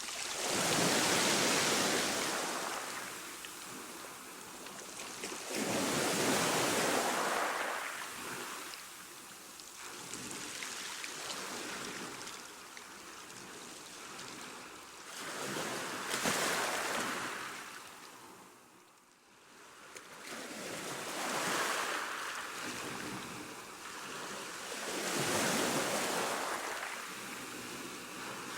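Ocean waves breaking and washing on the shore, each surge swelling and then fading back, about every four to five seconds. One longer lull falls a little past halfway, with the sound nearly dying away before the next wave comes in.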